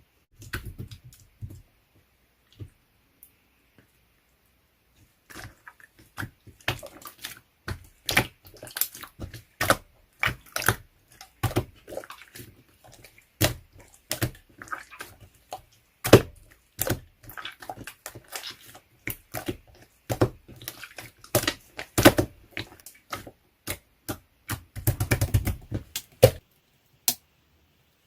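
Slime being pressed and worked by hand, giving off irregular sharp clicks and pops as trapped air bursts, with a dense run of crackling near the end.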